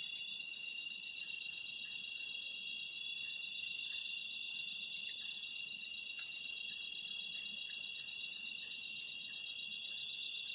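Dense chorus of insects: a steady, high-pitched shrill of many overlapping tones.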